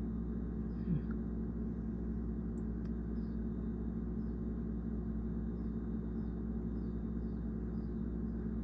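Steady low mechanical hum made of several even tones, with faint short high chirps recurring every second or so.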